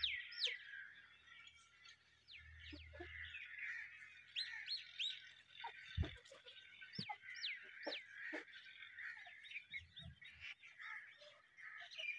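Faint chirping of small birds: short high chirps that slide downward, scattered every second or so over a steady background of birdsong, with a few soft knocks about halfway through.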